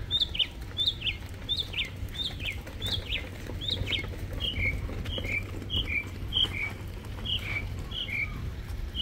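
A songbird singing a run of short, down-slurred whistled notes, about two a second. About halfway through it switches to a repeated two-note phrase, a higher note followed by a lower one.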